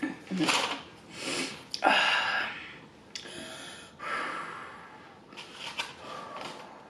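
Close-miked eating sounds: chewing with loud breaths through the nose, in a series of short noisy puffs and crunches.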